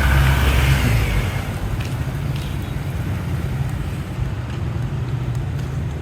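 Road traffic: vehicle engines running steadily, with one vehicle passing close by in the first second.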